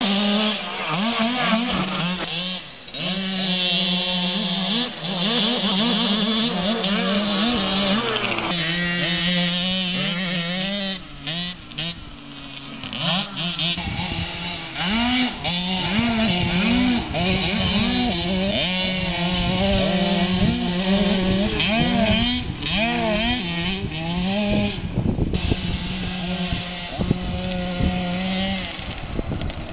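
Small two-stroke Polini mini motocross bike engines revving hard, the pitch climbing and dropping over and over with throttle and gear changes.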